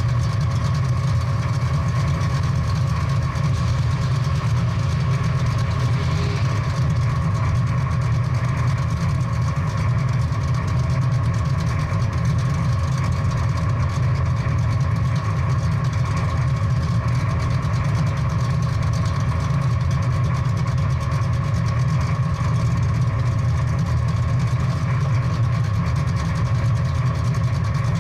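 Big-block V8 muscle-car engine idling steadily with a deep, even rumble.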